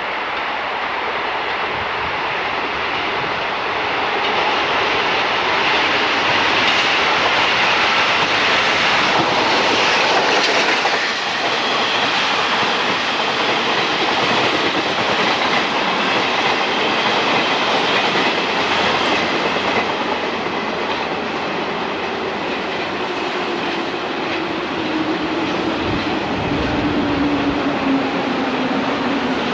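A train running along the electrified track, its wheels clicking over the rail joints, the noise swelling and easing. A whine slowly falls in pitch over the last several seconds.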